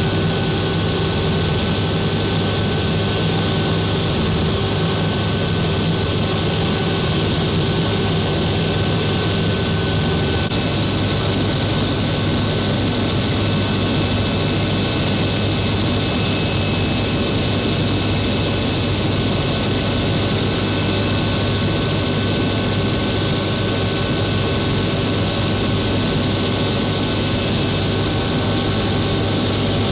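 Helicopter in steady flight: a constant high turbine whine over a deep rotor and engine drone, with a slight shift in the whine tones about ten seconds in.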